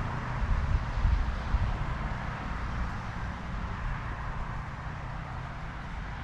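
City street ambience: a steady hiss with an uneven low rumble, as of road traffic.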